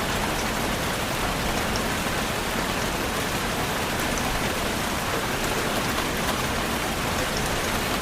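Steady rain falling on a surface: an even hiss with scattered droplet ticks.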